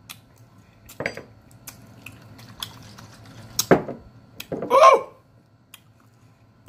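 Close-miked eating sounds while chewing a bite of rutabaga: scattered sharp mouth clicks and smacks, the loudest about three and a half seconds in. A short voiced 'mm' comes just before the five-second mark.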